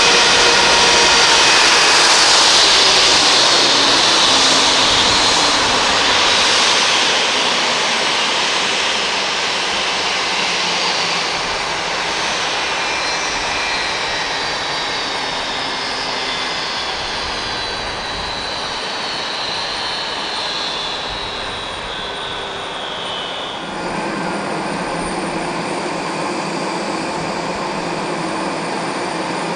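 Airbus A320-232 jet engines running with a loud whine that falls slowly in pitch while the overall level eases down. About 24 seconds in the sound changes abruptly: the high whine drops away, leaving a lower, steadier rumble.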